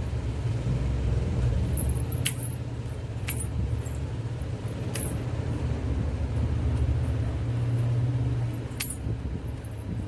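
Four pairs of anklets (payal) worn together, jingling in short shakes about four times, over a steady low rumble.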